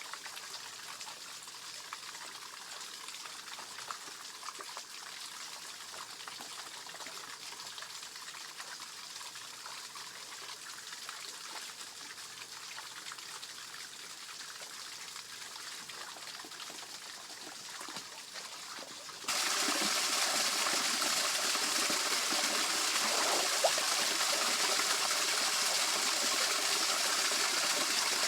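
Water running and trickling over a small waterfall in a rice-field stream, a steady hiss that suddenly gets louder about two-thirds of the way through.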